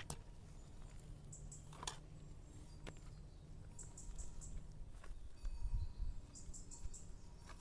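Faint high-pitched chirps in short quick clusters, repeating about every two and a half seconds, over a low outdoor rumble.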